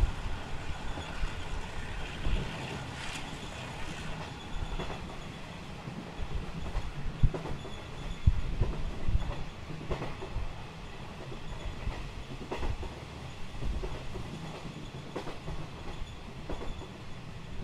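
Taiwan Railway SPK32700-series passenger car running at about 70 km/h, heard from inside: a steady rumble of wheels on rail, broken by irregular clacks and knocks from the track.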